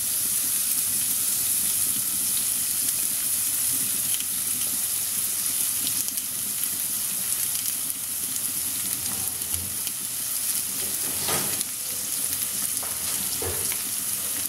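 Sliced onion and chopped garlic sizzling in lard in a frying pan: a steady, even hiss as they start to sauté.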